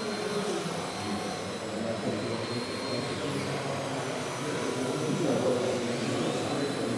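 Steady whirring noise mixed with the murmur of many voices talking in the background.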